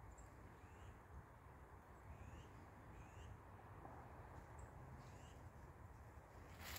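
Near silence in woodland with a few faint, short rising bird chirps spaced a second or two apart.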